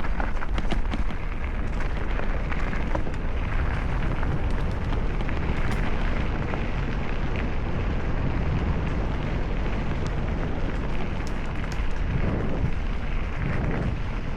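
Steady rush of wind over the microphone and the rumble of mountain bike tyres rolling down a rough woodland trail, with a few scattered clicks from stones and gravel.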